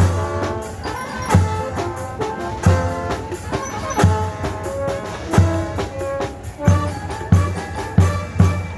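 Brass band playing a melody over a steady bass-drum beat, with strong drum hits about every 1.3 seconds.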